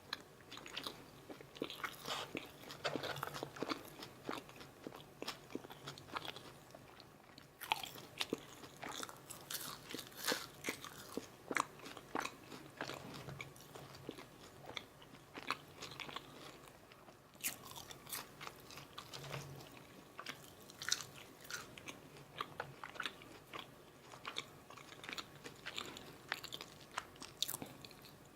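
Loud, close-up chewing and crunching of McDonald's Filet-O-Fish meal food, a dense run of sharp crunchy clicks with brief lulls about a quarter and about two-thirds of the way through.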